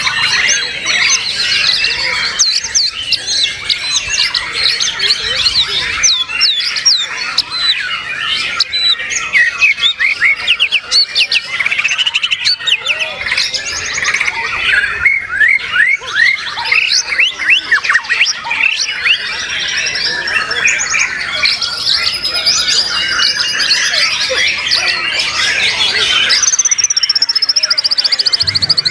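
White-rumped shamas (murai batu) and other caged songbirds singing at once, a dense stream of overlapping whistles, chirps and rapid phrases. Near the end comes a long falling trill.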